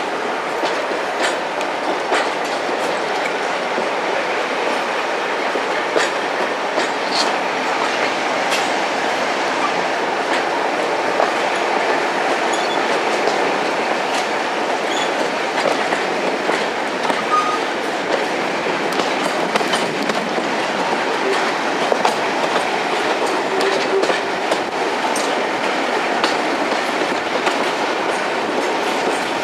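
A train running steadily along the track: continuous rolling noise with scattered wheel clicks over the rail joints.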